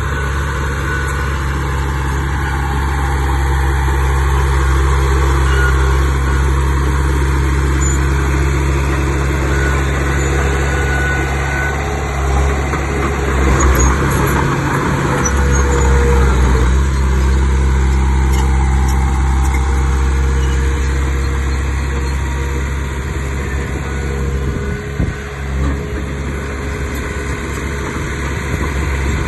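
Heavy diesel engine of earthmoving machinery running steadily, with a louder, rougher stretch about halfway through.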